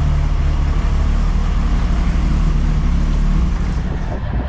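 A vehicle engine running steadily, a loud low drone, with a change in the sound about four seconds in.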